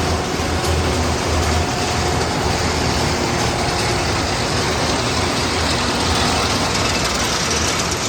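Steady low rumble and rushing noise of a vehicle's engine running while it is moving.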